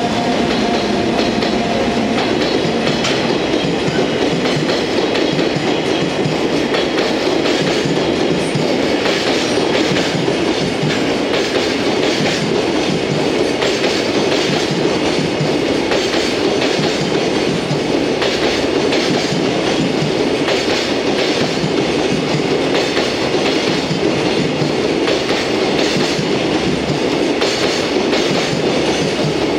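Empty Koki 100-series container flatcars of a freight train rolling past: a steady rumble of steel wheels on rail with clickety-clack over the rail joints. A faint whine at the start dies away about two seconds in.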